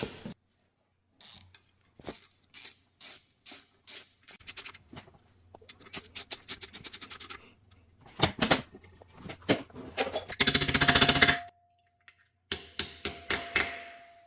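Hand tools working on engine hardware: metal knocks and clicks, with runs of rapid, even clicking like a ratchet wrench turning bolts down, densest a little past the middle.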